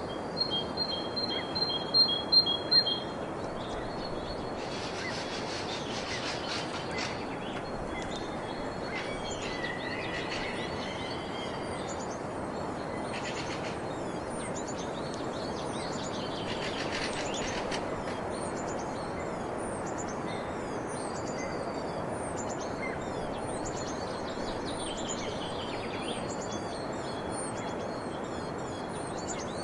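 Birds singing and chirping over a steady background hiss. In the first few seconds a quick run of clear repeated notes stands out as the loudest sound, and many short, high chirps go on throughout.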